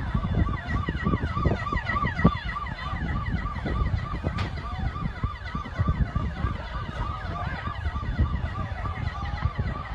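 Emergency vehicle siren wailing in a fast repeating yelp, about three cycles a second, with more sliding siren tones above it, over a loud low rumbling noise.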